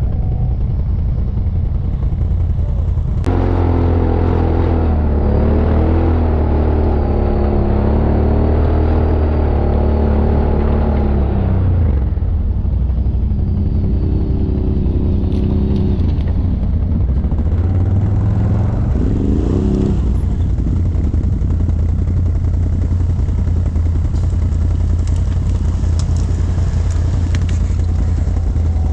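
ATV engines running under load on a forest ride, with a steady heavy low rumble. A closer engine revs up and down from a few seconds in until about halfway, then comes back in shorter rising revs.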